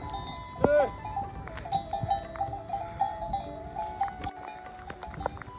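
A single short rising-and-falling call about a second in, followed by a melody of held notes that step up and down, with scattered light clicks.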